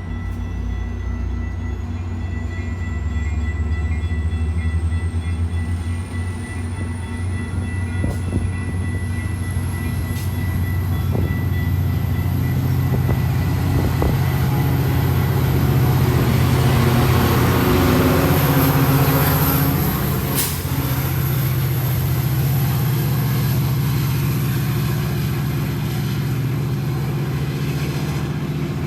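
A diesel-hauled passenger train passing close by: a steady low engine rumble with rolling wheel and rail noise that builds to its loudest about two-thirds of the way through, then eases off.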